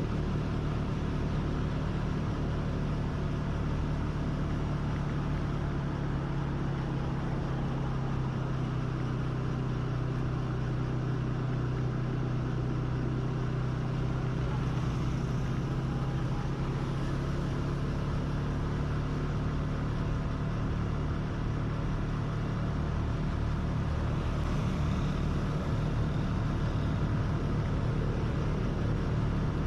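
A motor vehicle's engine running steadily at an even pitch under road and wind noise.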